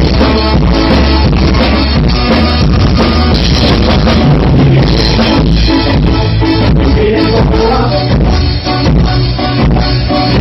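Ska music from a band, with drum kit and guitar playing a steady beat.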